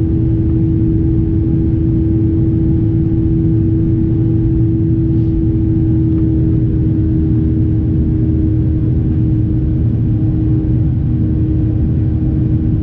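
Boeing 737 airliner's jet engines heard from inside the cabin during takeoff: a loud, steady rumble with a constant hum on top.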